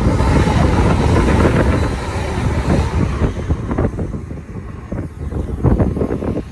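TransPennine Express Class 185 diesel multiple unit passing through at speed, a loud rush of wheels on rail and air that fades away after about three seconds. Near the end comes a brief burst of low rumbling noise on the microphone.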